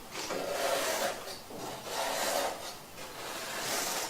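Stiff bristle brush scrubbing the evaporator fins of a wall-mounted air conditioner, three rasping strokes about a second apart.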